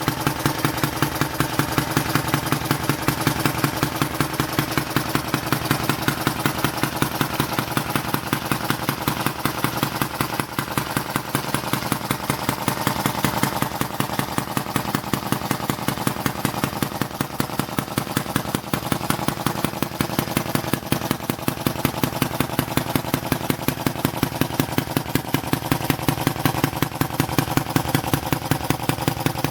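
Bengs Modellbau 'Karl' model hit-and-miss engine running steadily, with a fast, even mechanical beat.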